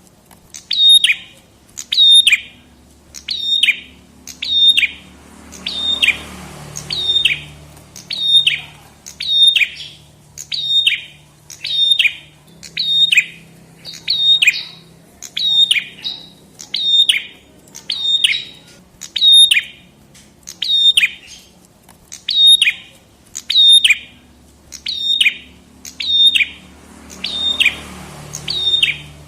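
Red-headed prenjak (prenjak kepala merah) calling over and over, a sharp downward-sweeping chirp repeated steadily about every 0.7 seconds.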